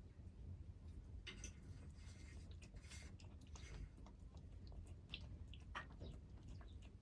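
Stray kittens eating, heard faintly: irregular small clicks and short bursts of chewing, in clusters a second or so apart, over a low steady rumble.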